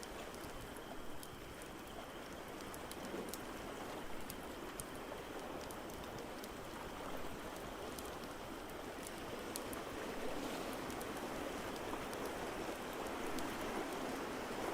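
A steady rushing wash of water, building slightly late on, with scattered sharp crackles and pops from a wood fire in a fireplace.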